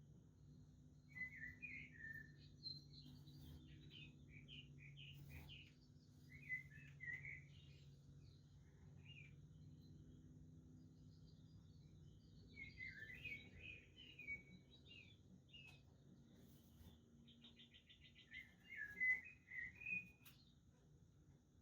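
Budgerigars chirping and chattering faintly in scattered bursts of short chirps, with a quick buzzy trill and the loudest burst near the end. A low steady hum runs underneath.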